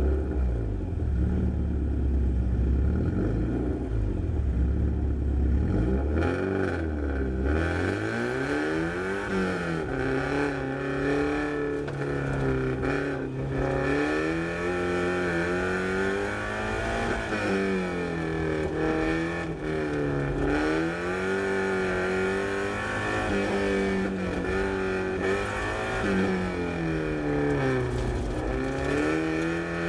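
Car engine heard from inside the cabin during an autocross run: it sits at a low, steady note for the first seven seconds or so, then launches and revs up and down over and over as the driver accelerates and lifts between the cones.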